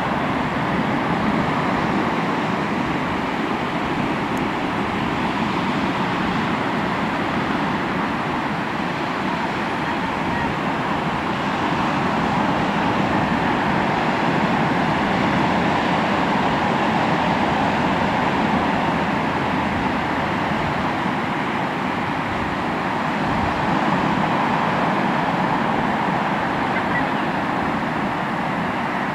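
Sea surf washing onto the shore in a continuous wash that swells and eases gently every few seconds.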